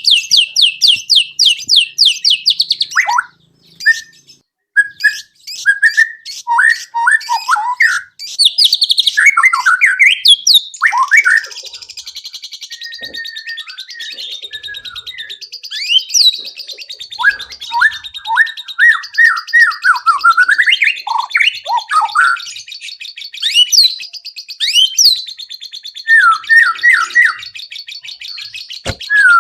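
White-rumped shama singing a loud, varied song of fast repeated notes, trills and sweeping whistles. A continuous buzzing rattle runs beneath it through most of the second half.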